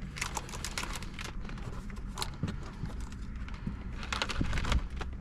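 Irregular small clicks, taps and rustles of hands pushing wiring and plastic dashboard trim into place, over a low steady hum.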